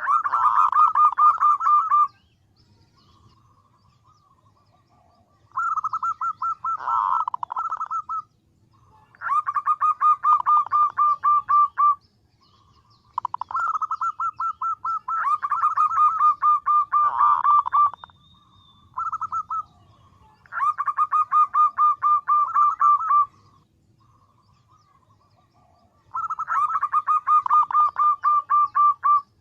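Female zebra dove (perkutut) calling in repeated bursts of rapid, evenly pulsed notes, each burst lasting two to five seconds with short pauses between. This is the female's call to attract males.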